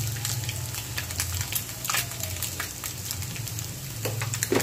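Chopped egg and vegetable filling frying in oil in a kadhai on a low gas flame: a steady sizzle with fine crackling and a low hum underneath. A couple of brief louder noises stand out, about two seconds in and near the end.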